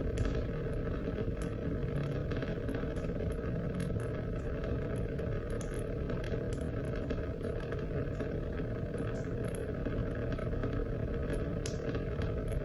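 Steady rain falling, a constant wash of noise scattered with the sharp ticks of individual drops striking.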